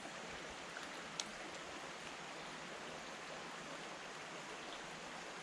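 River water running steadily, an even rushing hiss, with one sharp click about a second in.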